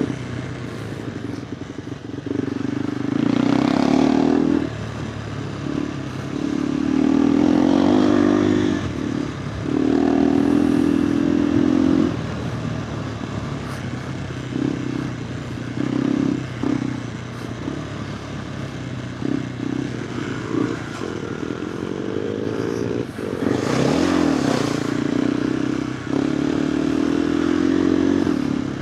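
KTM 390 Adventure R's single-cylinder engine through a Norifumi Whoops slip-on exhaust, ridden off-road: the throttle opens in several surges of a few seconds each, dropping back to a quieter run between them.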